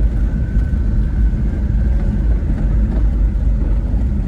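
Small Japanese mini pickup truck driving along, a steady low engine-and-road rumble.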